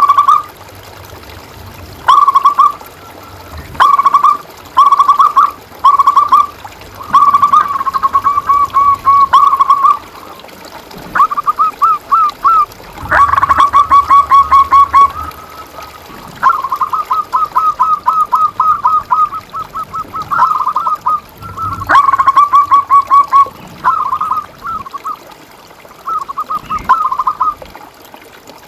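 Zebra dove (perkutut) cooing: short repeated phrases of soft notes alternate with longer rapid rolling strings of notes, with brief pauses between bouts.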